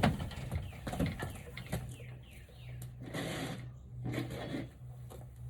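Power drill pre-drilling small pilot holes in wood, the motor running in several short bursts with the bit cutting through the wood.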